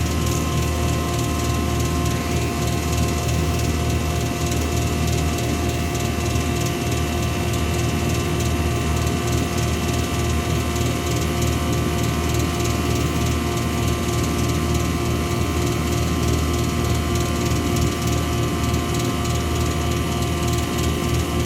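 Home air-conditioning system running: a steady machine hum with several steady tones over a rushing noise.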